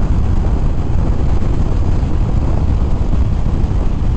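Steady wind rush and road noise over a motorcycle helmet's microphone at riding speed, with the motorcycle running underneath.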